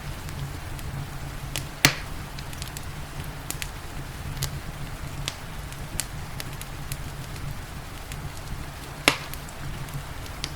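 Wood fire crackling, with scattered sharp snaps and two louder pops, one about two seconds in and one near the end, over a steady hiss of rain and a low rumble.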